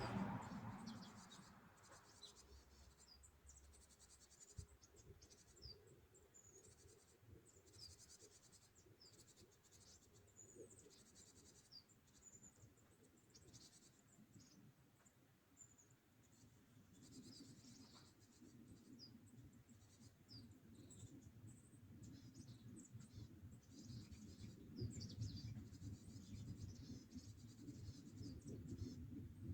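Faint chirping of small birds, many short high calls scattered throughout, over a low rumble that grows a little louder in the second half.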